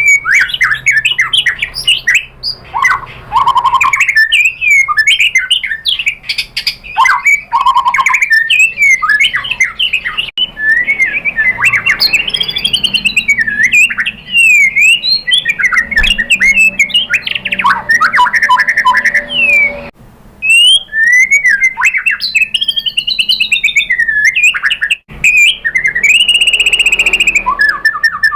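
White-rumped shama (murai batu) singing loudly and without letup: a fast run of varied whistles, sweeping notes, chattering phrases and rapid trills, including mimicked phrases of other birds, with a short break about twenty seconds in.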